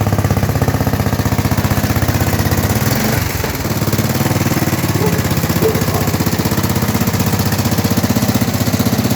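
Velocette MAC 350 single-cylinder engine running steadily, with a rapid, even beat and a brief dip about three seconds in.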